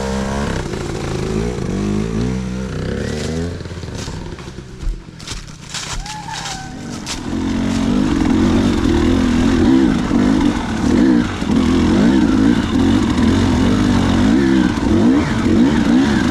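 Dirt bike engine under changing throttle, its pitch rising and falling. About four seconds in it drops off to a lower level with a few sharp knocks. Near the middle it comes back on the gas and runs louder to the end.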